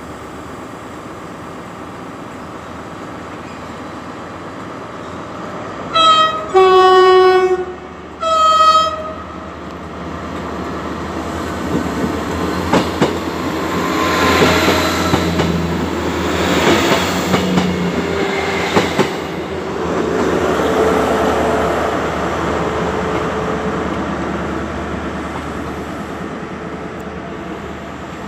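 Train horn sounding three notes, high, low, then high again, followed by a passenger train running past with its wheels clicking over rail joints in pairs, the rumble growing louder and then fading.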